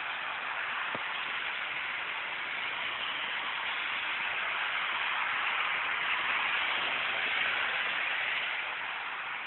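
Heavy rain pouring down, a steady dense hiss, with floodwater running along a flooded street. It grows a little louder midway.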